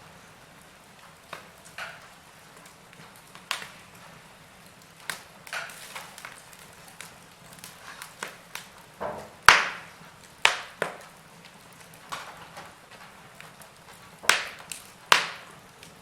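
Wood fire crackling: irregular sharp pops and snaps from burning logs over a low steady hiss, with a few louder snaps about halfway through and near the end.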